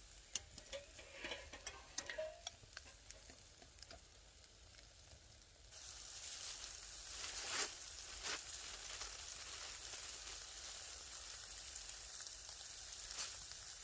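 Chops sizzling in a pan over a small wood fire in a firebox, with scattered light ticks and crackles. About six seconds in the sizzle jumps up to a louder, steady hiss.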